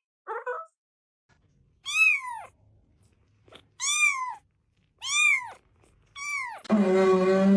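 A cat meowing: four separate meows about a second apart, each rising and then falling in pitch. A long, steady, lower-pitched cry starts near the end.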